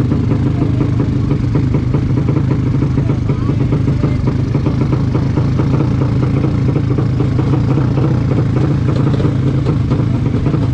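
Motorcycle engine idling steadily at low revs, with no revving.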